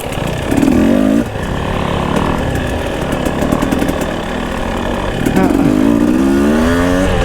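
Dirt bike engine running under changing throttle, its pitch rising and falling, with a rev climbing in pitch about five seconds in.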